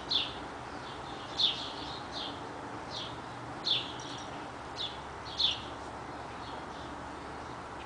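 A bird chirping repeatedly: short, high, falling chirps, about one a second, over a steady outdoor background hiss.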